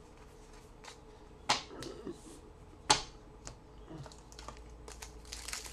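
Trading cards being handled on a table: a few small ticks and two sharp clicks about a second and a half apart. Near the end a pack wrapper starts to crinkle.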